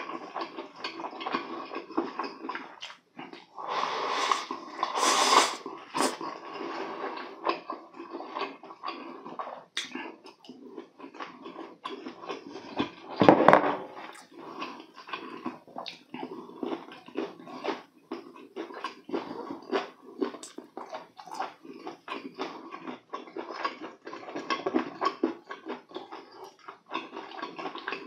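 Close-miked eating: wet chewing and mouth clicks as sauce-coated fried chicken and spicy stir-fried noodles are eaten with chopsticks. There is a louder noisy stretch about four to six seconds in and a single thump about halfway through.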